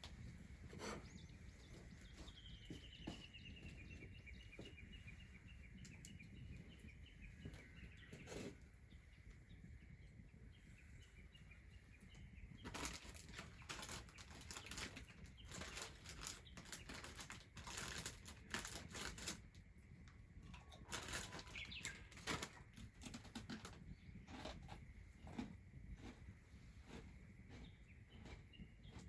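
Faint ambience: a bird's trill of quick notes falling slowly in pitch, then several seconds of quick clicking and rustling bursts about halfway through.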